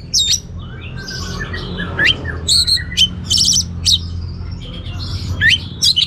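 Orange-headed thrush singing: a string of short, quickly rising whistled notes, with a fast rattling trill about three seconds in.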